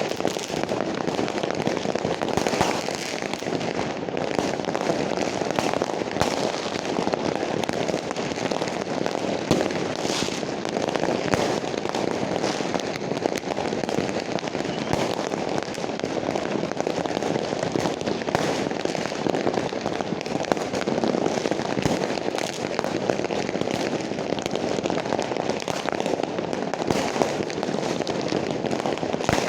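Fireworks going off without a break: a dense stream of overlapping pops and crackles at a steady level, with no single large boom standing out.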